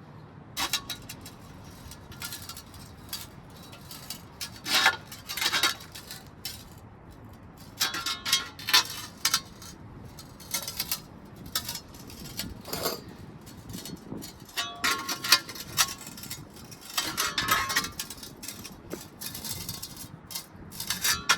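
Patio pavers clinking and knocking against one another as they are handled and set into place: a run of irregular sharp stone-on-stone clinks, some with a short ring.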